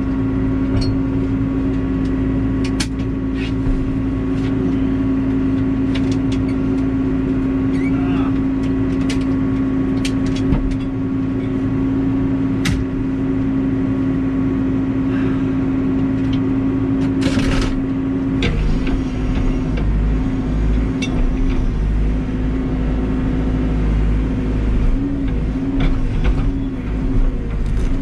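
Backhoe loader's diesel engine running steadily at high revs, with scattered clicks and knocks. About eighteen seconds in its pitch dips slightly and starts to waver.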